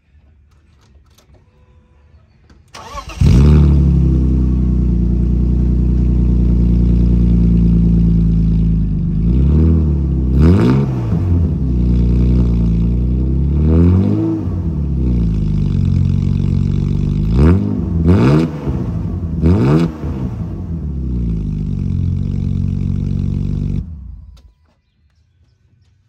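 BMW engine with a freshly fitted homemade straight-pipe exhaust, muffler removed, started with a brief crank about three seconds in and idling loud. It is blipped in several quick revs through the middle, then switched off near the end.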